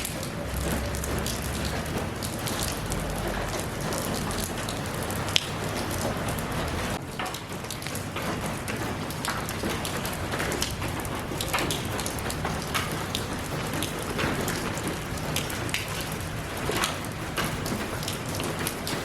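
Steady rain falling, a constant hiss with many individual drops pattering close by. One sharper drop strikes about five seconds in.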